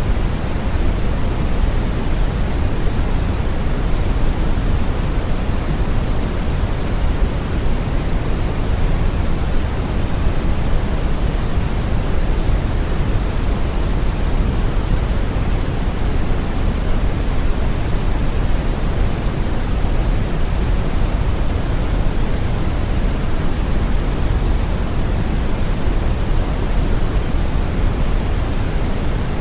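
Steady brown noise: an even, deep rushing hiss weighted heavily toward the low end, unchanging throughout.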